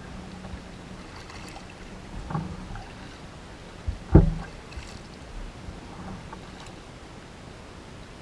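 Kayaking sounds: a steady wash of water and wind noise with a few knocks, the loudest a sharp thud about four seconds in.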